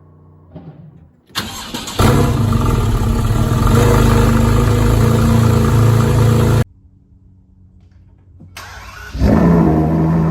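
A starter cranks briefly, then a high-performance car engine fires on a cold start and runs loudly at a high idle for about five seconds before cutting off abruptly. After a quieter gap, a second car engine fires near the end and settles into a loud high idle.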